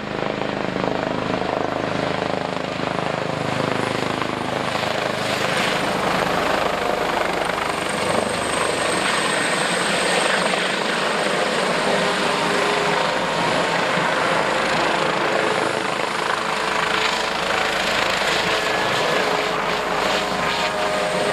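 Airbus H145M twin-turbine military helicopter flying a display, its rotor and turbine noise loud and steady throughout, with a faint high whine in the middle.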